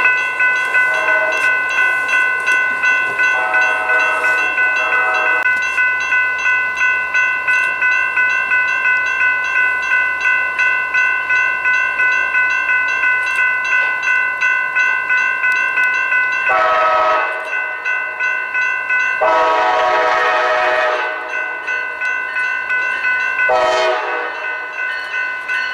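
Railroad grade-crossing warning bell ringing steadily at about two strokes a second, while a train sounds its air horn in five blasts, short and long: one about a second in, a longer one around three seconds in, and three more in the last ten seconds.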